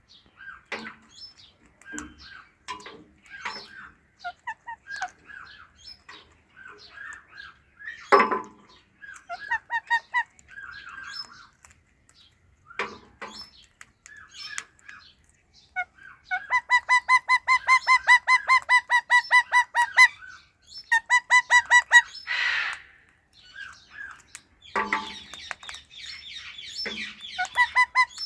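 Pet Indian ringneck and Alexandrine parakeets chirping and chattering, with scattered short calls and, past the middle, a fast even trill of about nine notes a second lasting several seconds, repeated briefly soon after. A few sharp knocks break in between the calls.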